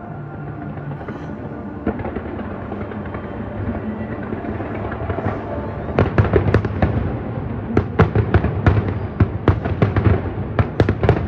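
Fireworks display: a continuous rumble of aerial shell bursts, then from about six seconds in a rapid volley of sharp bangs.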